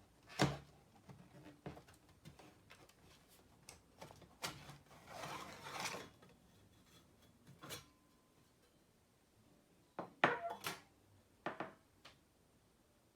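Irregular clicks and knocks of small hard parts being handled and set down, with a brief rustling stretch about five seconds in and a quick cluster of knocks near ten seconds.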